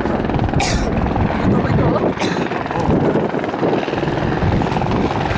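Helicopter running loud and steady, its rotor and engine noise filling the sound, with a couple of brief hisses.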